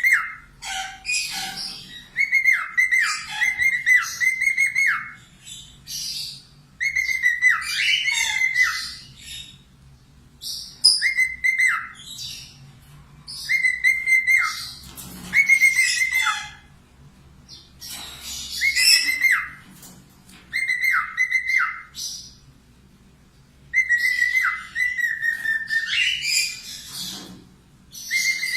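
Pet parakeet singing in bursts of chattering song, each phrase built on a repeated high whistle that drops at the end, with short pauses between phrases.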